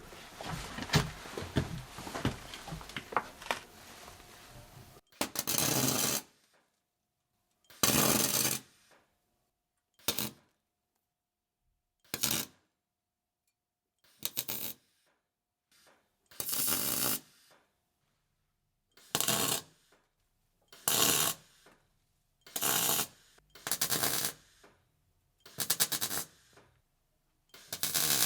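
Welder laying a series of short tack welds on a steel exhaust pipe: about a dozen separate crackling bursts, each under a second, with pauses of one to two seconds between them. The first few seconds hold scattered clicks and handling noise before the first tack.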